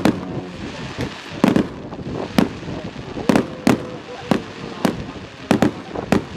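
Fireworks display: firework bangs going off at irregular intervals, about a dozen in six seconds, over a steady background rumble.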